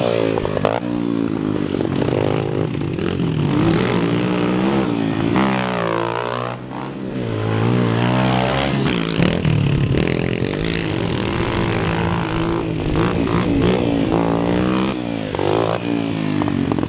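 Two small four-stroke pit bikes racing, their engines revving up and down, the pitch climbing and dropping over and over, with the two engine notes overlapping at times.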